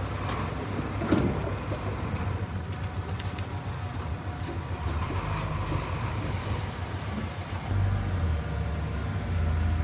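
Heavy earthmoving machine's diesel engine running with a steady low rumble, and a sharp clank about a second in.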